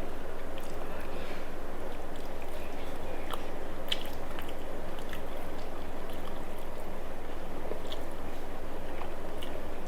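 Person chewing a mouthful of a rice meal, with a few faint soft clicks over a steady background hiss.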